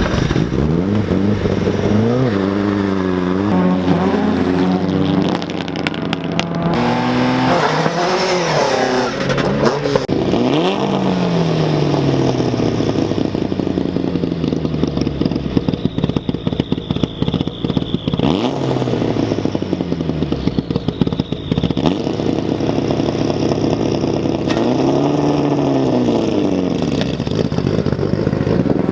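BMW E30 rally car's engine revving hard and dropping back again and again, heard from inside the car, the pitch climbing and falling several times as it accelerates and shifts.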